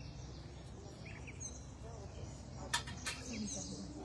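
Faint wild songbird chirps in the background, a few short high notes. Two sharp clicks come close together about three seconds in.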